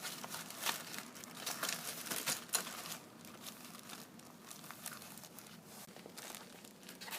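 Hand tools working the bolts of a radiator mounting bracket: a quick run of irregular clicks, rattles and scrapes for the first three seconds, then only scattered ticks.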